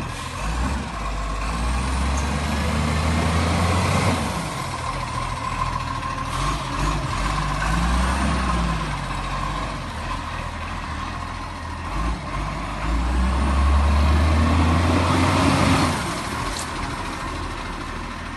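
Garbage truck's diesel engine revving up and dropping back three times, with a faint steady high tone throughout.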